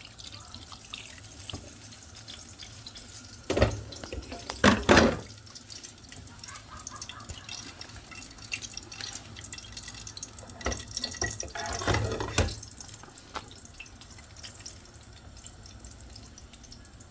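Water pouring and splashing while water is added to a cooking pot, with a few loud knocks from a basin or pot, in two clusters, about four seconds in and again about eleven seconds in.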